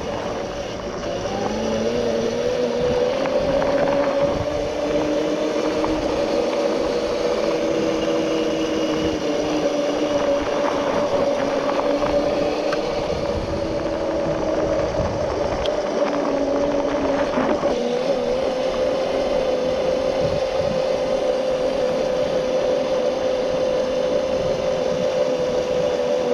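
Alternator-converted electric mini bike riding, its motor giving a steady whine that drifts slightly up and down in pitch with speed, over a low rumble.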